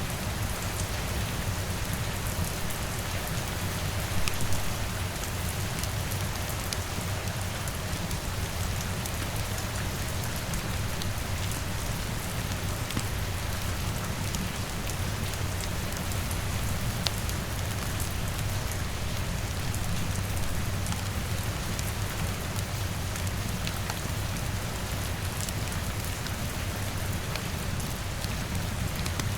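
Steady rain falling on a window, with scattered faint crackles of a wood fire in the fireplace.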